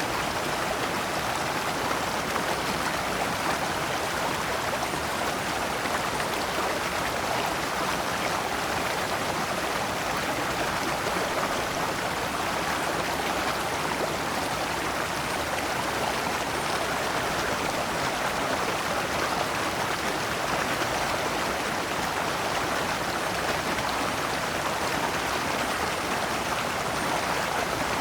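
Shallow stream running over large rocks in small cascades: a steady, even rush of water.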